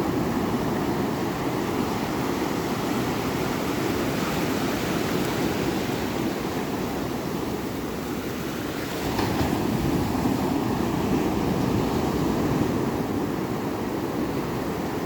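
Ocean waves washing in: a steady rushing surf noise that swells up again about nine seconds in.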